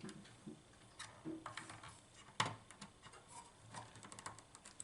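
Faint, scattered clicks and taps of small parts being handled: a DIP chip puller and EPROM chips being worked on a circuit board, with one sharper click about halfway through and a run of light ticks near the end.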